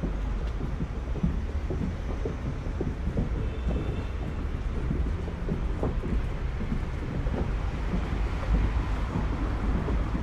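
City street ambience: a steady low rumble with many small irregular knocks.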